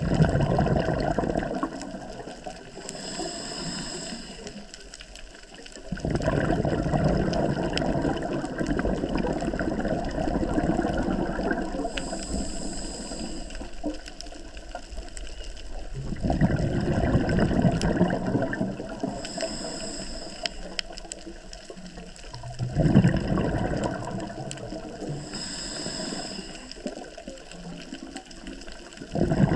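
Scuba diver breathing through a regulator underwater. A brief high hiss of the inhale is followed each time by a long burbling rush of exhaled bubbles, in about four full breaths at an uneven pace of one every six to ten seconds.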